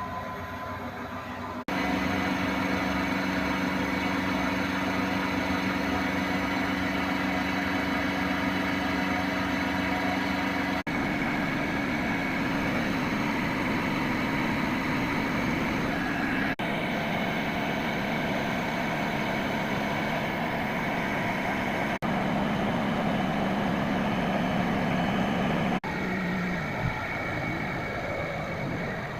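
Bosch washing machine running: a steady motor hum with a noisy whirring, broken by sudden changes about 2, 11, 17, 22 and 26 seconds in.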